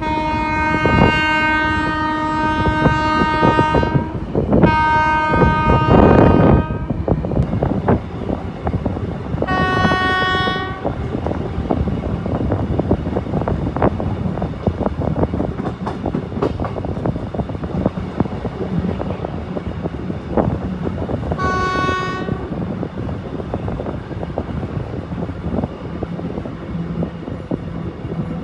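Train horn: two long blasts at the start, then two shorter blasts about ten and twenty-two seconds in. Underneath runs the steady wheel-and-rail rolling noise of a moving passenger train.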